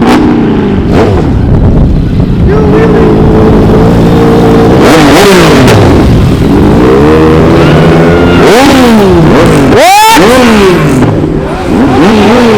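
Motorcycles leaving a car meet, their engines revving hard as they pull away. The pitch climbs, holds and drops with each gear change, several times over, with one sharp climb and fall about ten seconds in.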